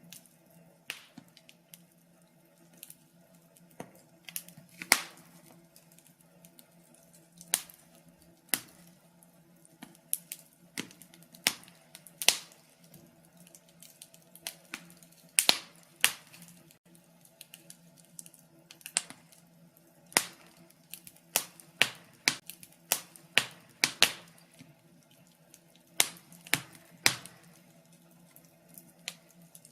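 Wood fire crackling in a fireplace: irregular sharp pops and snaps, some much louder than others, over a low steady hum.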